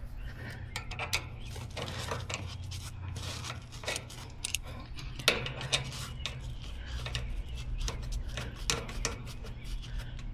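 Metal tools and refrigerant hose fittings being handled, with a run of short clicks, taps and scrapes. A steady low hum sits underneath.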